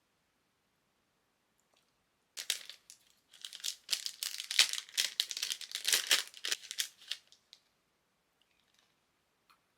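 Packaging wrapper crinkling and tearing as it is handled and opened, about five seconds of dense crackling starting a couple of seconds in.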